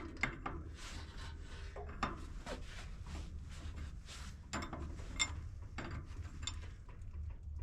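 Wrench working a hydraulic line fitting loose: scattered metallic clicks and short rasping scrapes over a steady low hum.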